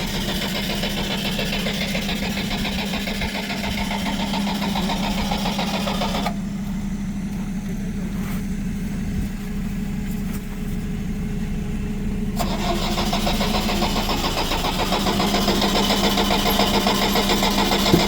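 A UAZ's petrol engine being cranked by its starter in two long bouts, with a pause of about six seconds between them, and not yet catching; the fuel has water in it. Another engine idles steadily underneath.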